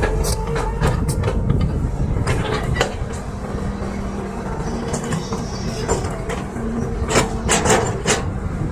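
Excavator at work: the diesel engine runs steadily under a held whine, with sharp metallic clanks scattered throughout and a quick run of them near the end.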